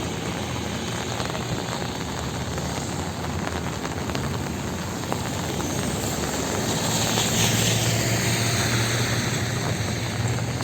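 Steady rain with city traffic on a wet street; about two-thirds of the way through, a vehicle passes on the wet road, growing louder and then fading.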